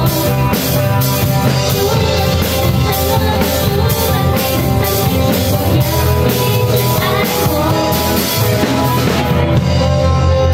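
Live band music in a pop-rock style: a drum kit keeps a steady beat of about two cymbal hits a second under guitar and held instrumental notes.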